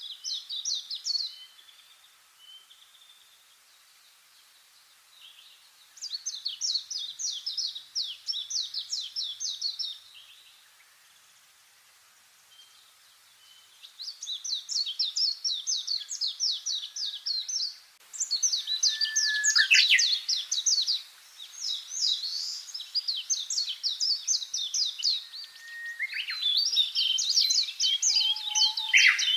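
Songbirds singing: repeated phrases of rapid, high chirping notes, each lasting a few seconds, at first with quiet pauses between and then almost without a break. A few lower, slurred calls come in over the song in the second half.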